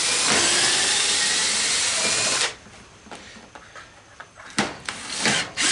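Power drill running as it backs screws out: a steady run of about two and a half seconds, a quieter pause with a few small clicks, then short bursts again near the end.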